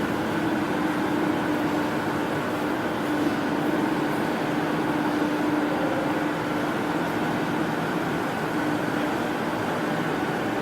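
A 250 kW Shangchai diesel generator set running at a steady speed: a constant engine drone with a steady hum that does not change.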